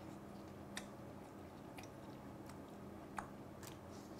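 A man chewing a mouthful of soy-sauce-glazed fried chicken. Several short sharp clicks come through, the loudest a little past three seconds in.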